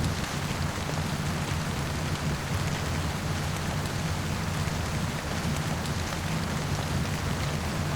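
Heavy rain pouring steadily, with a constant low rumble beneath it and faint small crackles of a campfire.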